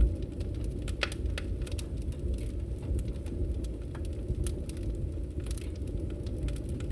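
Campfire crackling: a steady low rush of burning with irregular sharp pops and snaps, a stronger pop about a second in.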